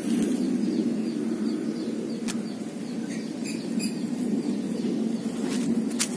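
A steady low background hum with a short run of quick, high bird chirps about three and a half seconds in, and a few faint clicks.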